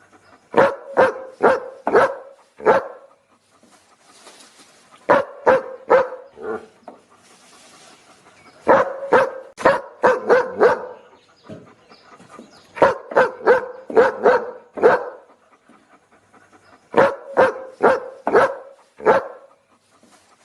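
A dog barking in quick volleys of several barks each, with pauses of a second or two between volleys.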